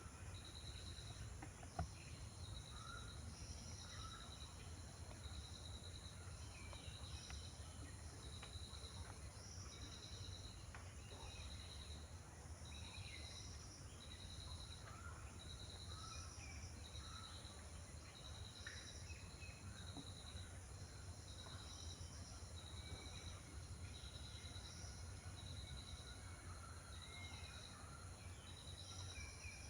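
Outdoor ambience of an insect chirping in a steady high-pitched rhythm, about once a second, with faint scattered bird calls and a low background rumble.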